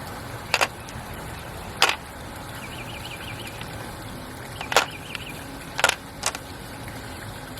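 Mahjong tiles clacking as they are set down and pushed across the table, five sharp clicks spread over several seconds.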